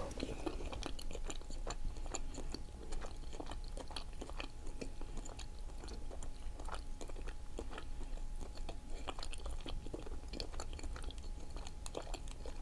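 Close-miked chewing of cooked octopus: a steady run of wet, irregular mouth clicks and smacks.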